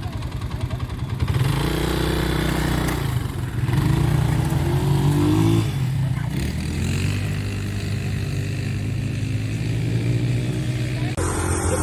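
Quad bike engine running and picking up revs about a second in as the bike pulls away, its pitch rising and falling with the throttle. The sound changes abruptly near the end.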